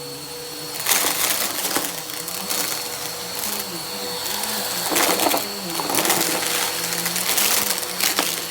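Vacuum cleaner running with a steady motor whine while sucking up confetti, which crackles and rattles through it in repeated bursts. The dust bin is overflowing.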